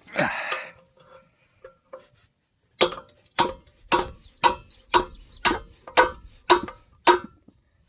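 Nine sharp metallic knocks, about two a second, each with a short ring, from striking at a truck wheel's hubcap to knock it loose. A brief noisy rush comes just before them at the start.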